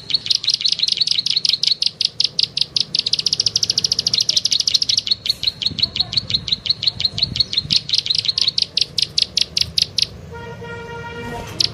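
Bird-lure call recording of rapid, high 'klik-klik' chirps repeated evenly at about eight a second. About ten seconds in the chirping stops, a steady pitched tone sounds for about a second, and then the chirps start again.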